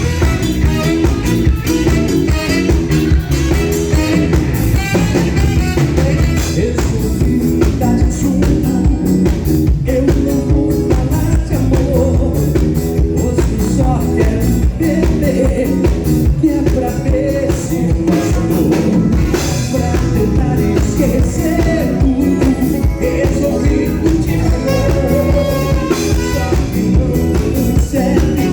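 A band playing a song, with a singing voice over a drum kit and other instruments in a steady beat.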